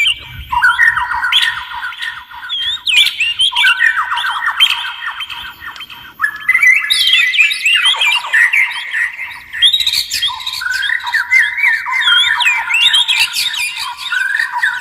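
Oriental magpie-robin and white-rumped shama singing: a dense, unbroken run of quick whistled and chattering phrases, with a short lull about six seconds in.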